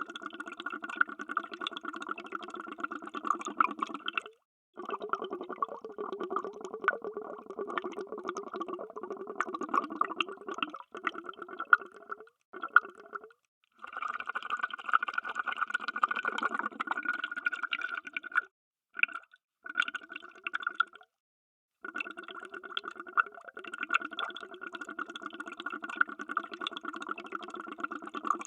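Underwater bubbles: a dense, continuous stream of bubbling, broken several times by short, abrupt gaps of complete silence.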